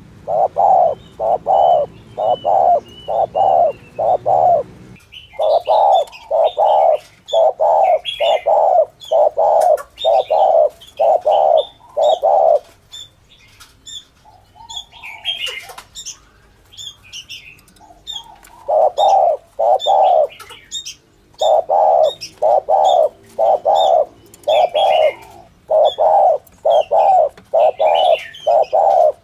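Spotted dove cooing: runs of low, evenly spaced coo notes, about one and a half a second, with a pause of several seconds in the middle. Smaller birds chirp at a higher pitch in the background.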